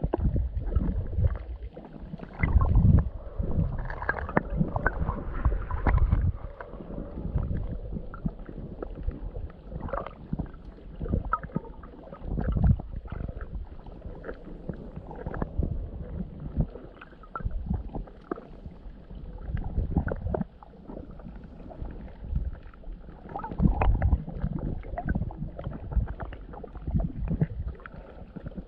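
Muffled sloshing and gurgling of seawater moving over the microphone during underwater filming, in uneven surges with small clicks and knocks.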